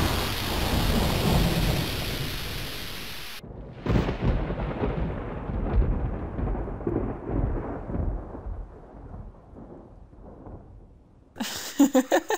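Sound-effect samples played back to back. Steady rain hiss cuts off abruptly about three and a half seconds in. A sudden thunderclap follows, its rumble fading away over several seconds. Near the end a woman laughs in short bursts.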